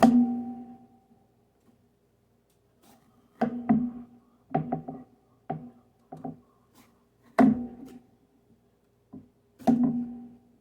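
Background music of sparse plucked acoustic guitar notes, each ringing out and fading, with gaps of near silence between them.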